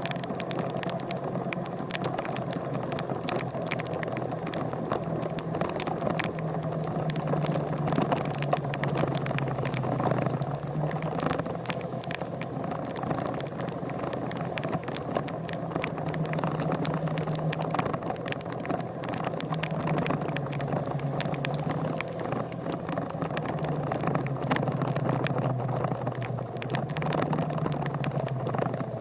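A vehicle engine running steadily, its low hum slowly rising and falling in pitch, with frequent rattling clicks throughout.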